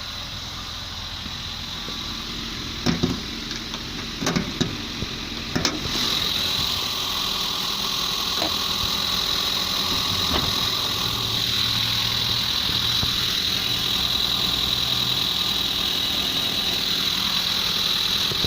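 Mitsubishi 4J12 2.4-litre four-cylinder engine idling steadily. A few clunks come between about three and six seconds in as the bonnet is opened. After that the idle is louder, with a thin high whine over it.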